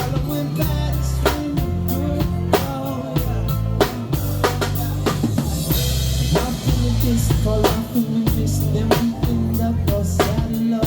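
Live band playing an instrumental passage of a song: drum kit with kick and snare keeping a steady beat over bass notes, with a brighter cymbal wash near the middle.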